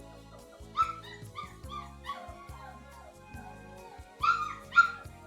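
Newborn Great Danoodle puppy whimpering and yipping: a quick run of short high cries, then two louder yelps a little past four seconds in, the fussing of a puppy hungry for its mother. Background music plays underneath.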